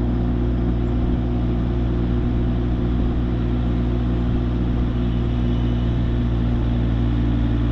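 Excavator's diesel engine running steadily, an even low drone, while it holds and eases the engine up.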